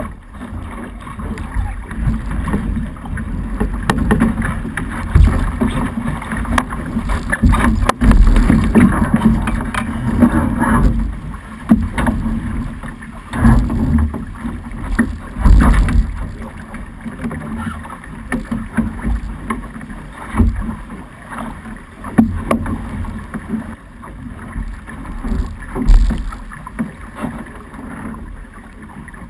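Wind buffeting a GoPro camera's microphone in uneven gusts, over water rushing and slapping along the hull of a Snipe sailing dinghy under sail.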